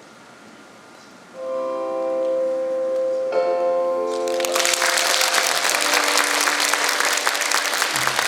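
Music ending on long held chords, with one change of chord, after about a second of quiet. Then, about four seconds in, an audience bursts into applause that carries on steadily.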